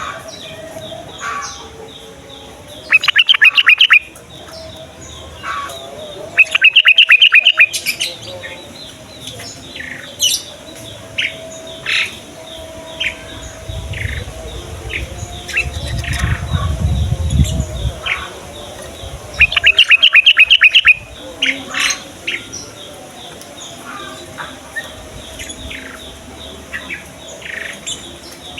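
Yellow-vented bulbuls (trucukan) singing: three loud, rapid bubbling phrases of about a second each, with short scattered chirps between them. A low rumble comes in briefly about halfway through.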